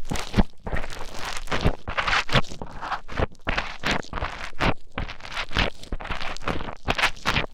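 Playfoam being squished and mixed with an ear pick inside a microphone's ear: dense, irregular crunching and crackling, several strokes a second.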